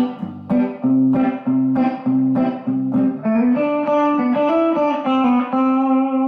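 Electric guitar with a slightly dirty lead tone playing a country-style lick over a backing track, outlining the G to C (1 to 4) chord change. It plays a run of quick picked notes, then a few notes that glide up in pitch, and ends on a long held note.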